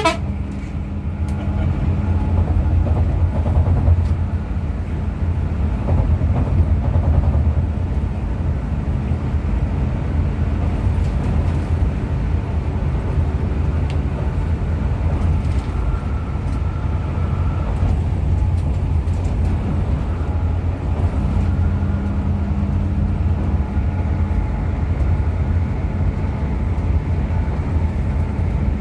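Bus on the move: a steady low rumble of the diesel engine and road noise, with the engine hum growing a little stronger about three quarters of the way through.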